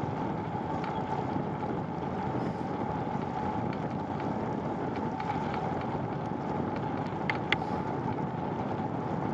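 Steady rushing wind and road noise on the microphone of a moving bicycle, with two short sharp clicks a little past seven seconds in.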